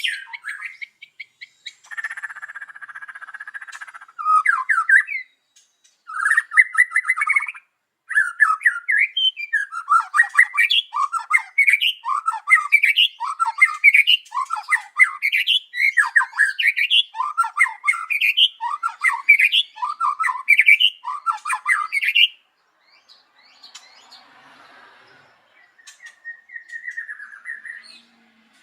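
White-rumped shama (murai batu) singing loud, varied whistled phrases. It then goes into a long run of rapidly repeated rising notes that breaks off near the end, followed by one short, softer phrase.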